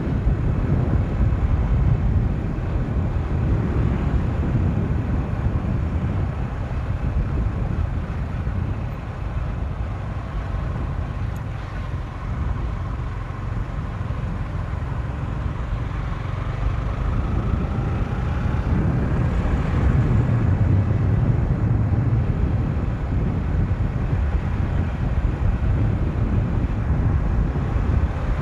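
Motorcycle being ridden at speed, with heavy wind buffeting on the microphone over the engine. The engine note rises twice, about two-thirds of the way through and again near the end.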